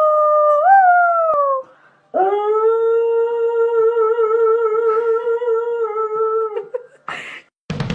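A dog howling in two long, steady-pitched notes, as if singing: the first slides down and fades about a second and a half in; the second is held for about four and a half seconds with a slight wobble in pitch. Drum hits come in at the very end.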